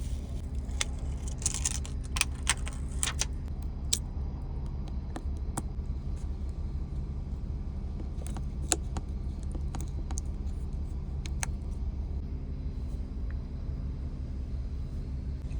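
Steady low hum of a car's idling engine heard inside the car, with scattered small sharp clicks and taps, a flurry of them in the first few seconds and a few more later, from work on the phone.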